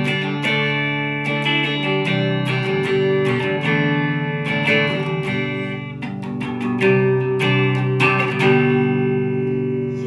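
Mexican-made Fender Stratocaster electric guitar with Lace Sensor pickups, strummed chords ringing on between repeated strokes.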